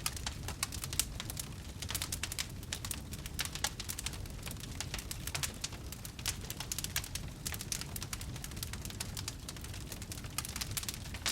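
Campfire crackling, with many quick, irregular snaps and pops over a low steady rumble.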